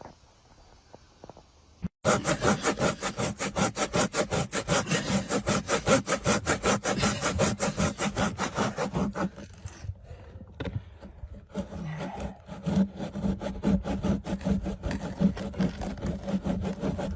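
Fast, even rasping strokes, about five a second, with a steady low hum under them. They start suddenly about two seconds in, after near quiet.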